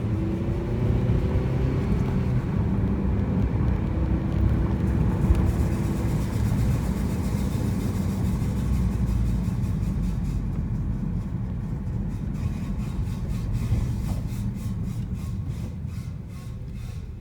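2015 Honda Civic Si rolling along with a loud grinding from the brakes over a steady low rumble. The grinding appeared after a brake change. The noise fades toward the end.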